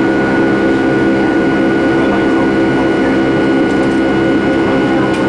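Jet airliner's engines running steadily, heard from inside the passenger cabin: a constant drone with a steady high whine over it.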